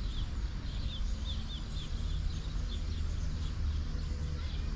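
Small birds chirping: a run of short, quick chirps that each fall slightly in pitch, thinning out after the first couple of seconds, over a steady low outdoor rumble.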